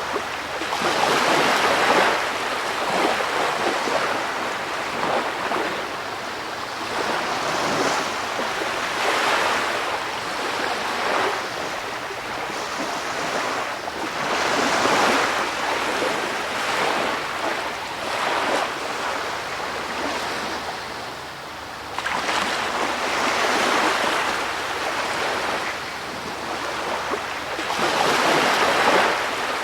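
Ocean waves washing in: a rushing surf noise that swells and fades every two to four seconds.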